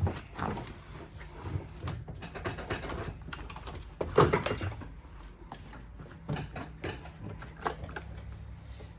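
Irregular clicks, knocks and light rattles, like things being handled and shifted inside a stripped car, with one louder knock about four seconds in.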